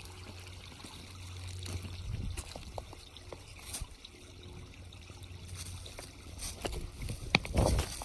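Shallow creek water trickling over rocks, with scattered small clicks and a few louder knocks near the end.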